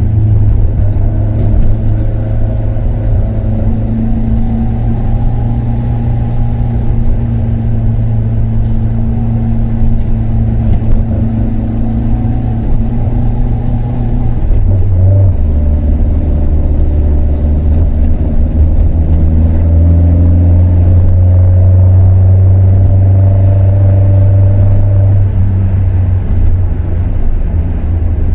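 Toyota KP61 Starlet's 1.3-litre four-cylinder engine on Solex carburettors and an aftermarket muffler, running under way with a steady note that drops in pitch about halfway through and then holds.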